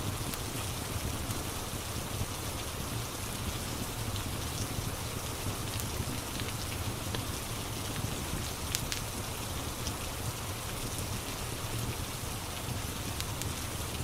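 Steady rain ambience, an even hiss with a low rumble underneath, dotted with scattered sharp pops from a crackling fireplace; one pop, about nine seconds in, stands out.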